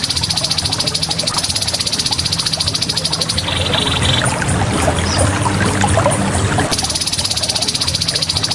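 Grey-headed babbler (tepus kepala abu) calling in a rapid, evenly pulsed rattling trill that stops for a few seconds and starts again, over a low steady hum.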